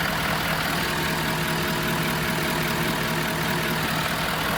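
Ford F-250 pickup's engine idling steadily, with faint steady hums, while its A/C system runs to take in a refrigerant charge.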